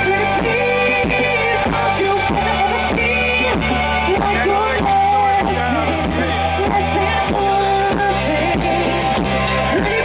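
Live pop-rock band playing, with a steady drum beat under sustained chords and a sliding melodic line.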